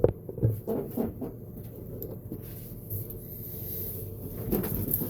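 Short clicks and knocks of parts and wiring being handled during work on a radial arm saw motor, bunched in the first second or so and again near the end, over a steady low hum.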